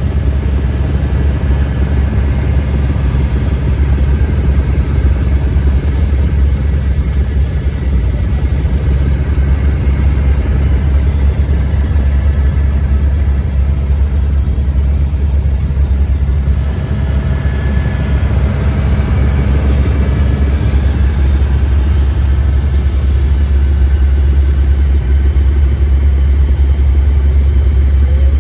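Helicopter running steadily, a loud, even low engine and rotor drone.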